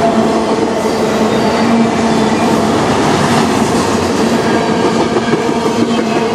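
Freight cars rolling past, autoracks and then covered hoppers, giving off a steady, loud noise of steel wheels running on rail. Two steady tones hum underneath it.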